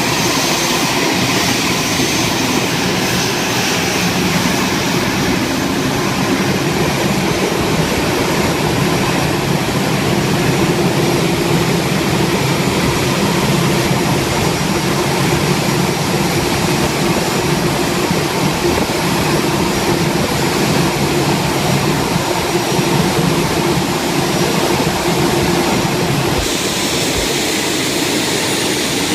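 Airbus A320 jet engines running loud and steady, a continuous roar with a low hum under it.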